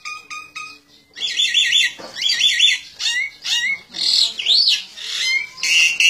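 Loud, high-pitched bird calls: shrill squawks and chirps repeated in quick runs of three or four, starting about a second in, with a few calls that sweep up and down near the middle.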